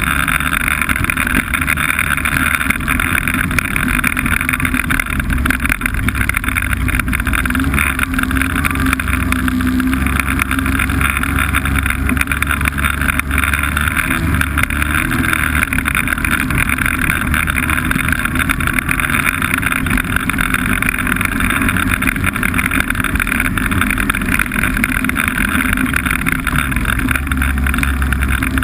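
Snowmobile engine running steadily while riding, with slight shifts in engine pitch.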